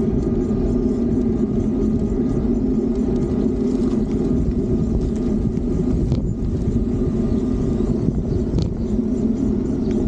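Steady rumble of wind and road noise from riding a Fiido D3 Pro electric bicycle, with a couple of brief clicks in the second half.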